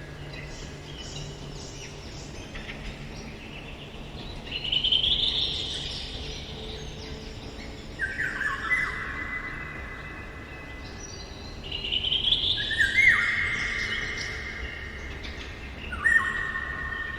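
Forest birdsong, with the Eurasian golden oriole named as the singer: loud phrases come about every four seconds, over softer calls from other birds.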